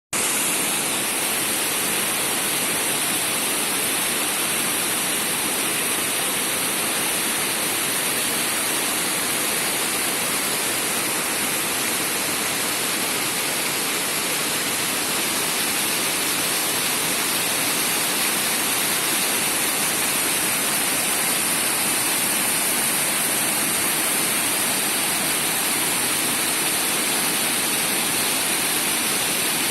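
Steady roar of a mountain waterfall, falling water giving an even, unbroken hiss strongest in the high end.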